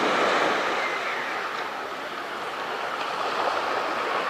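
Sea surf washing onto the beach: a swell of breaking-wave noise at the start that settles into a steady wash.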